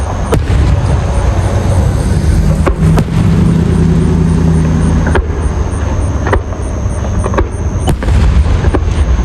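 Fireworks display: a continuous low rumble of bursts with repeated sharp bangs and crackles through it. A steady pitched tone sounds for about two seconds in the middle.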